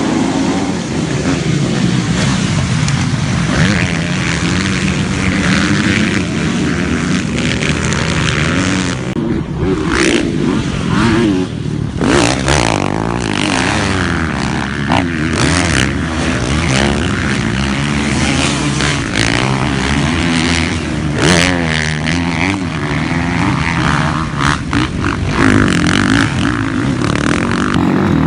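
Several motocross bikes racing, their engines revving hard up and down, with overlapping rising and falling pitches as they accelerate and back off.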